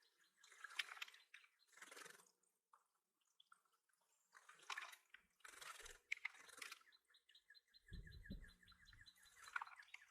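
A songbird's trill, a rapid run of evenly repeated notes, in the second half, over several short noisy bursts. A brief low rumble comes during the trill.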